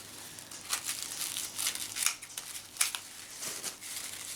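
Packaging being handled by hand, crinkling and rustling in short irregular bursts.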